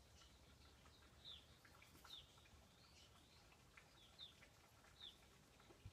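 Near silence, with about half a dozen faint, short, high bird chirps spread through it.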